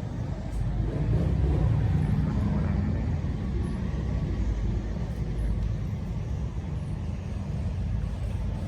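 Low, steady rumbling background noise of the traffic or vehicle kind. It swells about a second in and then eases off.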